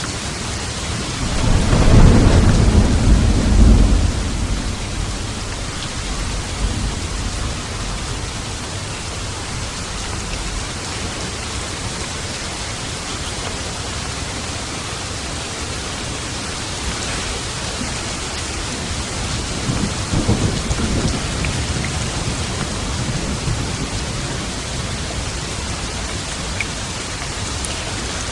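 Steady heavy rain with a loud clap of thunder rumbling low about two seconds in, fading after a couple of seconds, and a fainter roll of thunder about twenty seconds in.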